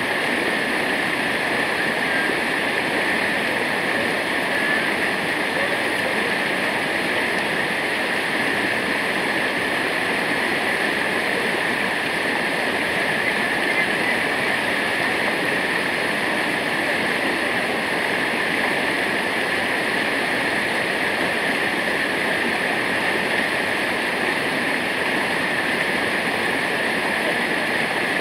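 Steady rushing of a waterfall: an even, unbroken wash of falling water with no change over the whole stretch.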